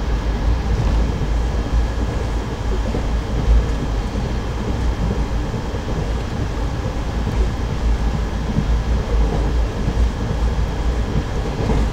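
Passenger train running along the rails, a steady heavy rumble of the wheels and coach.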